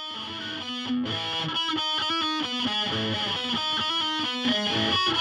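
Electric guitar playing a rhythmic run of plucked notes as closing music.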